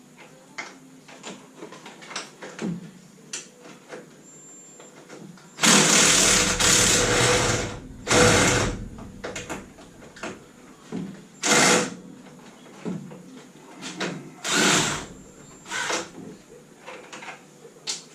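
A power tool running in short bursts, the longest about two seconds, starting about six seconds in and coming several more times, with small tool clicks in between.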